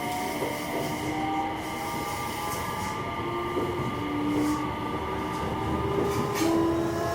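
JR West 227 series EMU (KuMoHa 227-7) running, its Hitachi IGBT VVVF inverter giving several steady whining tones over the rumble of wheels on rail. The tones jump to new pitches a few times.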